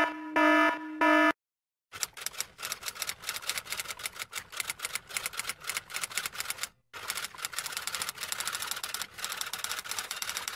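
Four short pitched beeps in the first second, then after a short pause a fast, continuous clatter of typing on keys that runs for about eight seconds, with one brief break in the middle.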